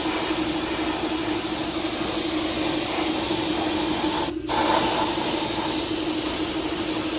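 Steady loud hiss of rushing air with a steady hum under it, cutting out for a moment about four seconds in.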